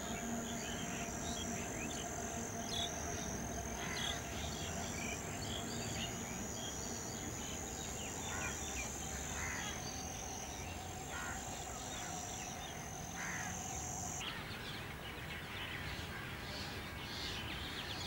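Scattered short bird calls over a steady outdoor background hiss, with a faint high whine that cuts off abruptly about three-quarters of the way through.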